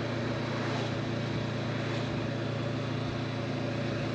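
Honda motorcycle engine running steadily under load while climbing a steep hill, a constant drone that holds one pitch.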